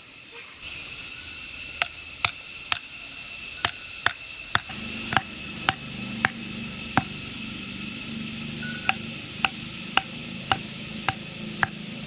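Repeated sharp knocks of a hand tool striking wood, roughly two a second, with a steady high-pitched hum behind them.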